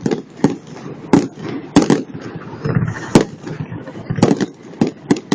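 Fireworks display: aerial shells bursting with sharp bangs about once or twice a second, the loudest about three seconds in, over continuous crackling.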